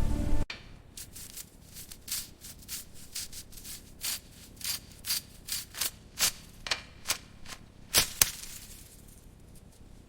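Rasping abrasive strokes on a surface, short and quick at about three to four a second, uneven in strength, stopping about eight seconds in.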